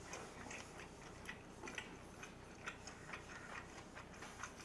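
Quiet chewing close to the microphone: faint, irregular soft clicks and ticks from the mouth.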